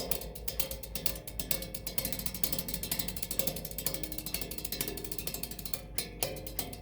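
Improvised percussion: a fast, dense run of sharp clicks and taps with a ratchet-like rattle, broken briefly near the end before it carries on.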